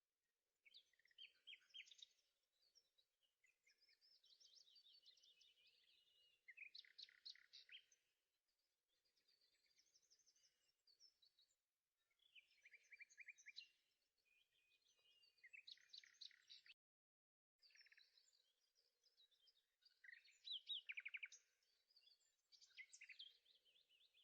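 Faint birdsong: a run of quick chirping and trilling phrases, one after another with short pauses between them.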